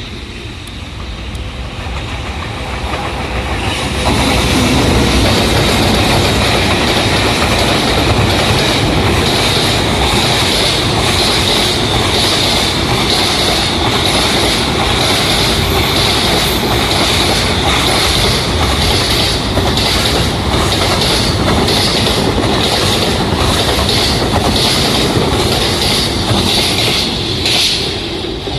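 Freight train hauled by an EH200 electric locomotive passing. The noise builds over the first few seconds as the locomotive approaches, then holds as a steady rumble with a regular clickety-clack of wagon wheels over rail joints, about one a second. It falls away near the end as the last wagon goes by.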